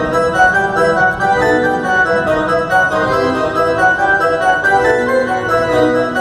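Live band playing an instrumental passage with no singing: a quick run of short melodic notes over steady accompaniment.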